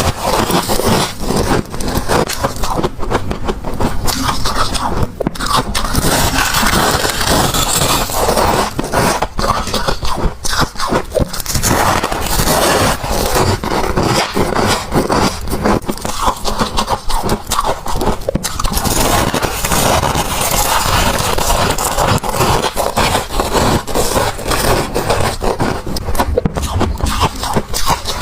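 Close-miked crunching of freezer frost being bitten and chewed: a loud, continuous gritty crunch made of many fine crackles.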